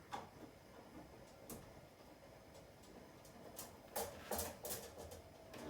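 Scattered light clicks and knocks from hand tools and refrigerator tubing being handled, with a cluster of sharper knocks about four seconds in.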